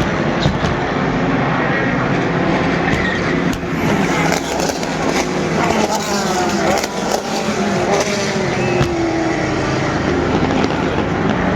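Sports-prototype and GT race cars at speed, several engine notes overlapping and gliding up and down in pitch as the cars pass and change gear.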